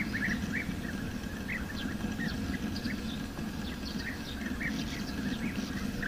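Bee-eaters calling: a run of short chirps at uneven intervals, with fainter higher notes, over a steady low hum.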